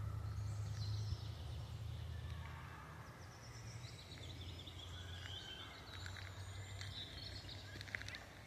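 Forest birds singing in warbling phrases, with a rapid trill about halfway through, over a steady low rumble. A few light clicks come near the end.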